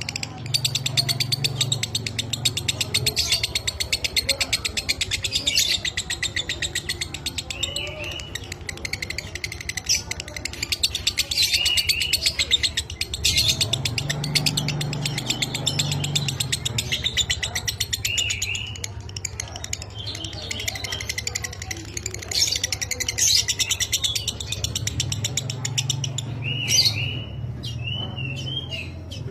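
Lovebird chattering in a long, very rapid unbroken trill ('ngekek'), the dry 'minor' song type, with short repeated curved squeaks breaking through it.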